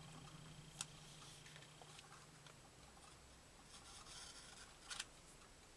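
Near silence with faint handling of paper pieces being glued: a small click about a second in, a soft rustle of paper near four seconds and another click just before five seconds.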